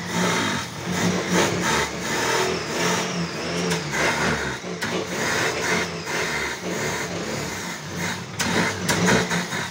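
Fiat 147's four-cylinder engine running just after its first start in eight months, on an improvised fuel feed instead of the tank. The revs rise and fall unevenly as the throttle is worked by hand at the engine.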